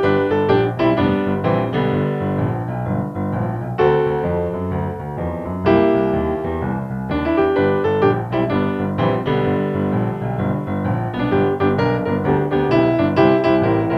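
Piano music: chords in the middle range over lower bass notes, with new notes struck in quick succession.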